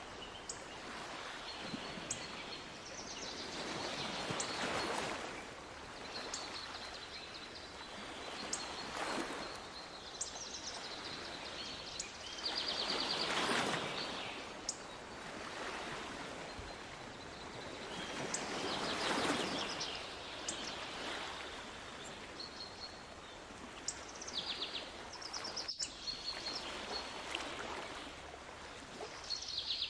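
Sea waves washing in and drawing back, swelling about every five seconds, with small birds singing short high trills and chirps over them.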